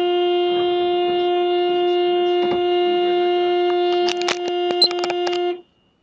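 A vehicle horn held down in one steady, unbroken note. A run of sharp knocks and clatter sounds over it about four seconds in, and the horn cuts off suddenly near the end.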